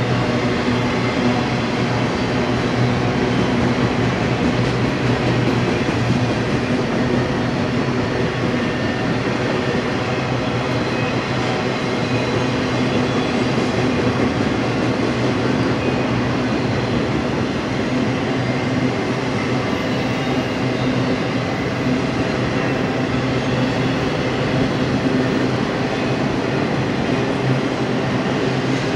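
BNSF intermodal freight train of spine cars loaded with truck trailers rolling past. The wheels on the rails make a steady rumble and rattle that does not let up.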